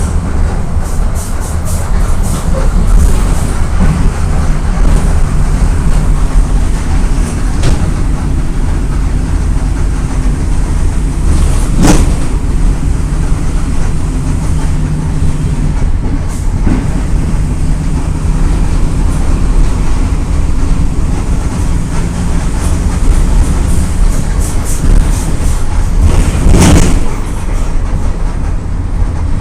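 Volksbus 17.230 EOD bus running under way: a steady low engine and road drone with light body rattles. A sharp knock comes about twelve seconds in and another near the end.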